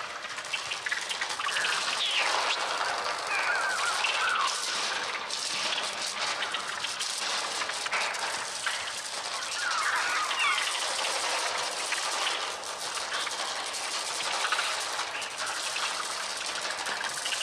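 Many birds screeching and crying, with short rising and falling calls overlapping, over a steady rushing hiss.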